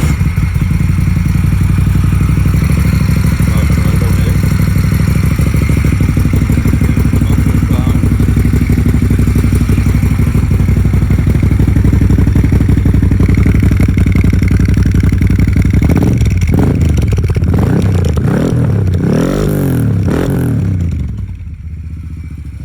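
2014 Moto Guzzi California 1400 Touring's transverse V-twin, fitted with Mistral mufflers, starts on the button and idles steadily. Near the end it takes several quick throttle blips, each rising and falling in pitch, then settles back to a quieter idle.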